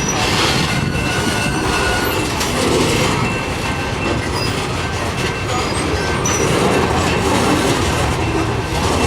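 Freight cars of a long Norfolk Southern mixed freight train rolling slowly past on steel rails, with thin, high wheel squeals over the steady rumble of the wheels.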